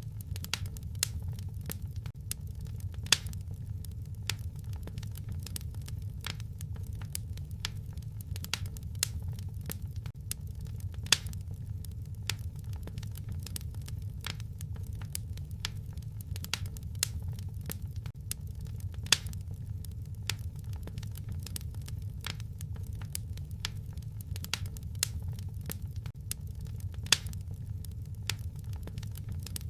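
Fireplace fire crackling: a steady low rumble of the flames with a constant scatter of small sharp crackles and a few louder pops.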